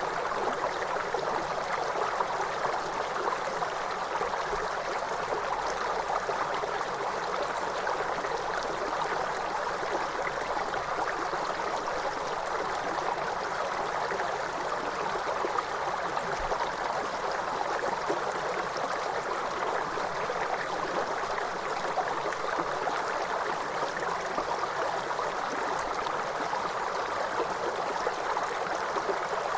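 A waterfall's cascading water, rushing steadily and evenly with no breaks.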